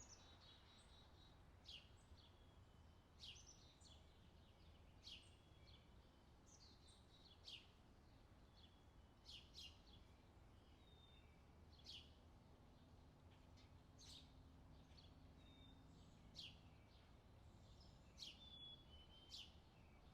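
Faint birdsong: short, sharp high chirps repeated every second or two, over a steady low hum.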